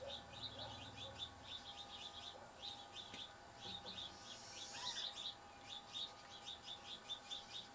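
A small bird chirping: short, high chirps repeated several times a second, faint.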